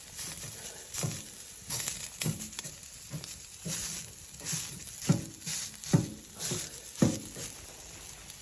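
Footsteps crunching in deep snow, roughly one step a second, the heaviest steps coming in the middle.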